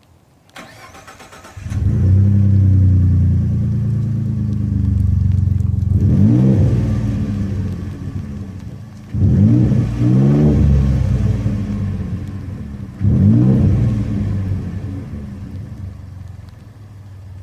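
Ford F-150 EcoBoost's 3.5-litre twin-turbo V6 cranks for about a second, catches and settles into a fast idle. It is then revved three times, each rev rising and falling back to idle.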